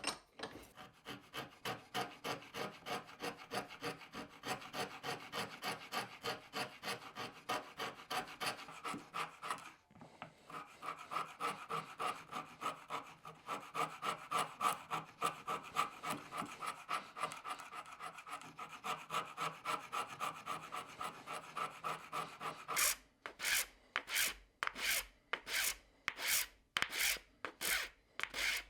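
Wood being hand-filed in quick, even back-and-forth strokes, about three a second, with a short pause about ten seconds in. Near the end the strokes turn slower, louder and sharper, about two a second.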